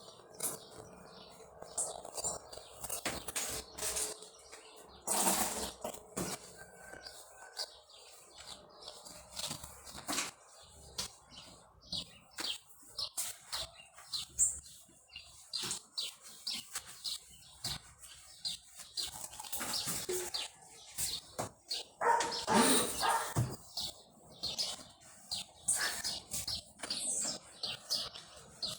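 Irregular clatter, knocks and rustling from washing a refrigerator by hand, with a louder burst of noise about five seconds in and again near twenty-three seconds.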